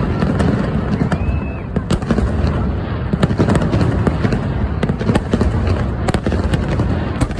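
Fireworks going off continuously: a dense rumble of booming shell bursts with many sharp crackles and pops, and a brief whistle about a second in.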